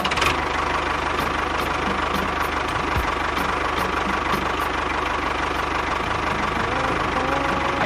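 A small engine running steadily at an even speed, with a rapid regular beat low down.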